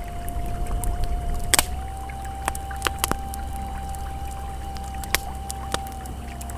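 Campfire crackling with sharp pops, the biggest about a second and a half in, over the steady rush of a flowing river. A single soft tone is held underneath, an ambient music note that steps up slightly in pitch early on.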